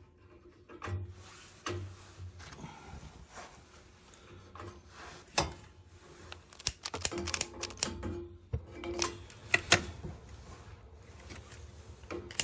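Irregular clicks and light knocks of hands working on a gas boiler's controls and burner parts while getting it ready to light, the sharpest about halfway through and a quick cluster of clicks a little later, over a faint low hum.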